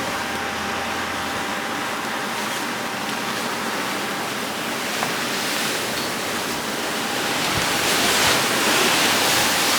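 A steady rushing hiss of moving air that grows louder and brighter over the last few seconds, with one small click about halfway through.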